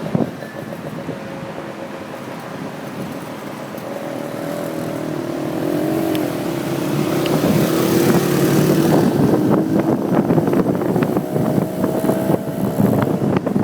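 Motorcycle riding through city traffic, heard from the pillion seat with wind on the microphone. From about four seconds in, an engine note rises and grows louder as it accelerates.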